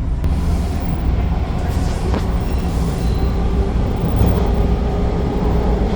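TTC Line 2 subway train running at speed between stations: a loud, steady low rumble of wheels on rail with a faint steady whine, and a light click about two seconds in.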